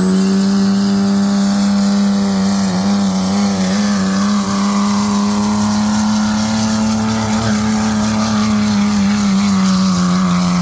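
5.9-litre Cummins diesel in a 2006 Dodge 2500 pickup held at high revs under full load while pulling the sled, its pitch steady with slight wavers.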